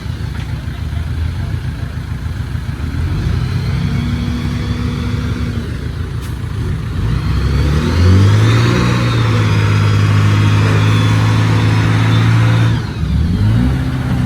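Diesel engine of a Komatsu D20P bulldozer running at working speed. About halfway through it revs up and holds the higher pitch, drops briefly near the end, then revs up again.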